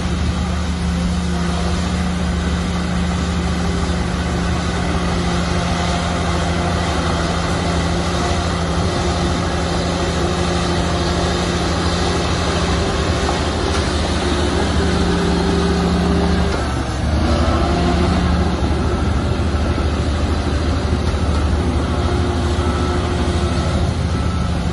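Heavy diesel engine of earthmoving machinery running steadily. Its note dips briefly about two-thirds of the way through, then picks up again.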